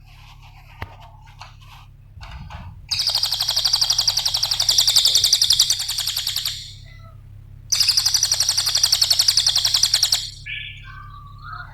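Cililin (golden-bellied gerygone) singing: a few soft scattered chirps, then two long, very rapid, high-pitched trills of about three seconds each, a second apart, and a few lower chirps near the end. A steady low hum runs underneath.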